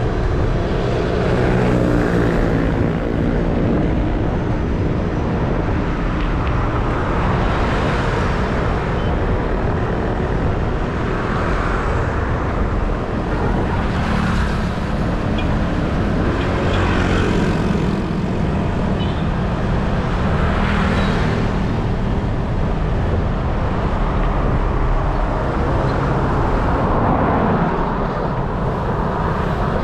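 Road traffic noise heard while riding along a highway: a steady rumble of wind and engines, with vehicles swelling past every few seconds.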